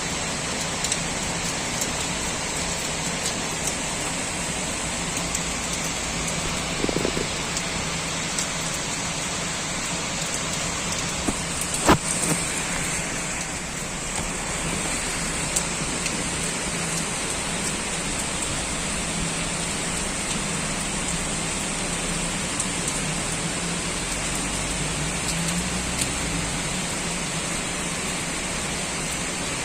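Heavy rain pouring steadily, with a low hum underneath. A few sharp drip-like ticks are scattered through it, the loudest about twelve seconds in.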